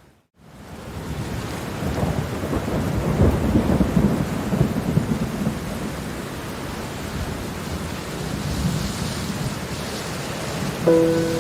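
Thunder rumbling and crackling through steady rain, loudest a few seconds in, after a brief dropout at the start. Held music notes come in near the end.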